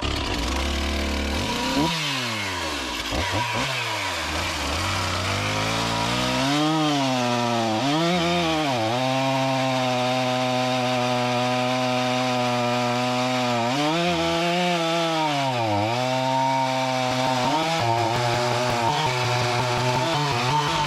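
Stihl MS460 Magnum two-stroke chainsaw at full throttle, cutting straight down into the base of a red oak trunk with the full bar. The engine pitch sags twice under the load of the cut and climbs back each time.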